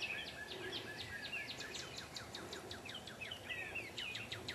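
Small songbirds singing faintly: a quick, steady run of short, downward-sliding chirps, several a second.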